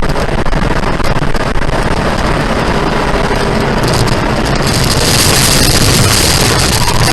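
Steady road and engine noise of a moving vehicle. A louder hiss comes in about four and a half seconds in and lasts nearly to the end.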